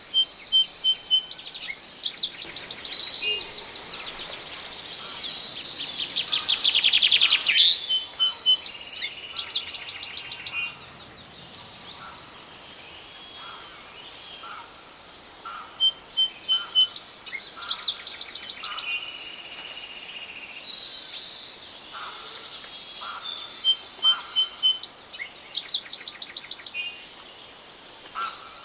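Forest songbirds singing: dense, overlapping chirps and fast trills in two long bouts, with a lull of a few seconds between them, over a faint steady hiss.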